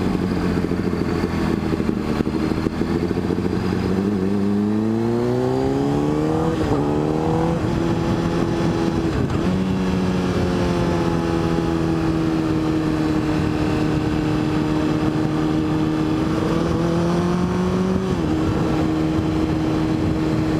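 Motorcycle engine under way on the road, its pitch climbing as it accelerates, then dropping in steps at gear changes, holding steady at cruise, and rising and dropping once more near the end. A steady rush of wind and road noise runs underneath.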